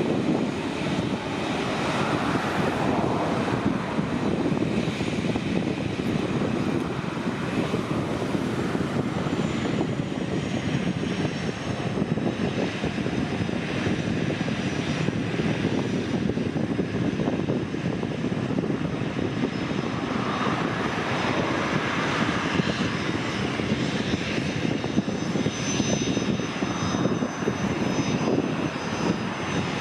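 Turbofan engines of a twin-engine business jet running, a steady rushing noise with a thin high whine coming in near the end.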